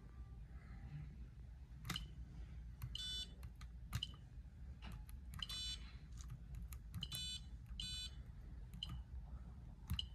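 Faint button clicks on an electronic control, with four short, buzzy electronic beeps scattered among them.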